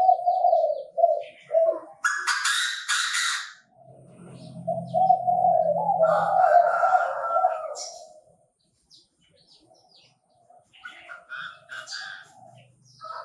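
Chinese francolin calling: runs of harsh, choppy notes, then one long loud call, with a short raspy noise in between.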